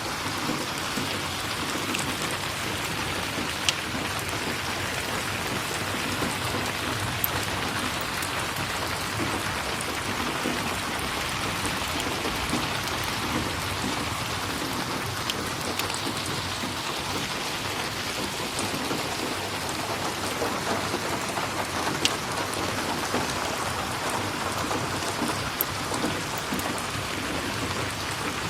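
Steady rain falling, an even dense hiss with a few sharp ticks scattered through it.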